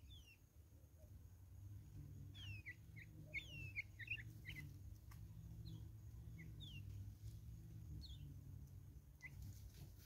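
Faint bird chirps: thin, short, downward-sliding notes, a quick run of them about two to four seconds in and single ones scattered after, over a steady low hum.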